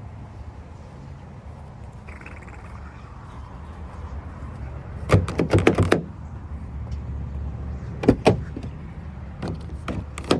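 A steady low machine hum, with rapid rattling clatter in short bursts about five seconds in, about eight seconds in and near the end.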